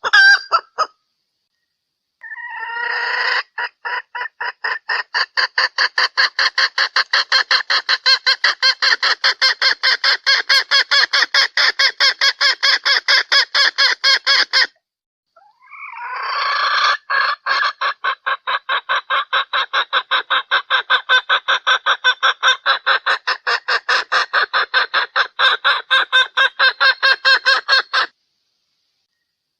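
Female junglefowl hen calling: a long run of rapid, evenly repeated clucks, several a second, in two bouts of about twelve seconds each, each growing louder as it starts. It is a lure call for drawing in males.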